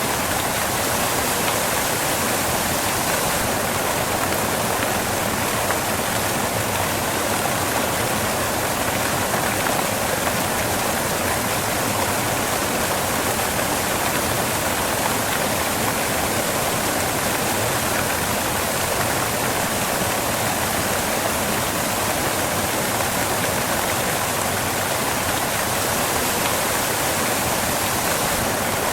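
Waterfall: water falling onto rocks in a steady, even rush with no breaks.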